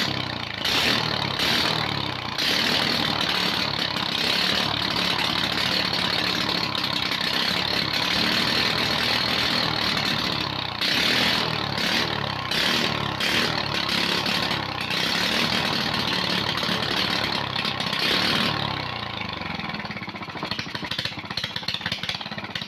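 Freshly overhauled Loncin 7 hp single-cylinder four-stroke engine running at speed, its revs swinging up and down. About 18 seconds in it is throttled down and its pitch falls to a lower, uneven idle.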